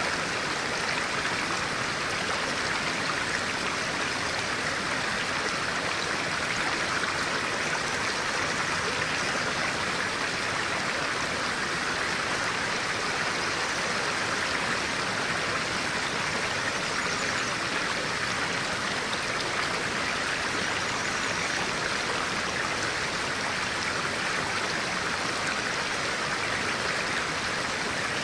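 Stream of clear water flowing steadily, an even, unbroken rush of water.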